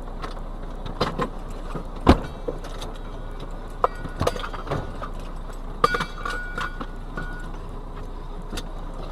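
Vehicle cab noise while driving: a steady low running sound with frequent sharp knocks and rattles, a loud knock about two seconds in, and a short thin tone about six seconds in.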